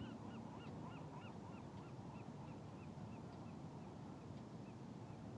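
Geese honking in a quick, even series of short calls, about four a second, growing fainter and dying away about three and a half seconds in, over a steady low rumble.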